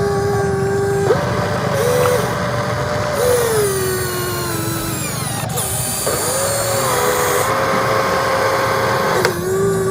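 Electric motor of a radio-controlled construction machine whining under load, its pitch stepping up and down several times and sagging lower in a long slide in the middle as the load changes.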